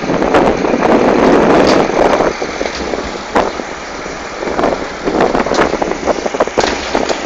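Tractor running as it is ridden along, with wind buffeting the microphone and occasional rattles and knocks. It is loudest over the first two seconds.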